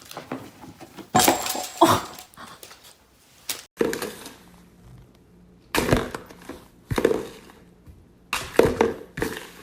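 A series of short knocks and clatters, about five, spread irregularly with quiet gaps between them.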